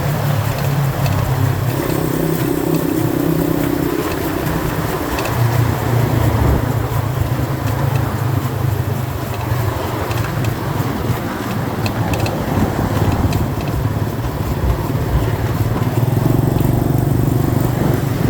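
90cc dirt bike engine running while riding, holding a fairly steady pace with its note strengthening and easing off in stretches, over a constant rushing noise.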